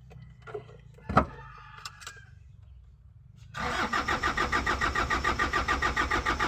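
A sharp click about a second in, then from about three and a half seconds the Isuzu Elf truck's engine cranking on its starter in a quick, even pulse without catching: the truck is hard to start.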